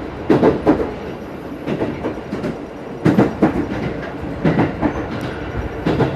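Train wheels clacking over rail joints while running, heard aboard a moving train over a steady running rumble: a quick group of clacks recurs about every second and a half.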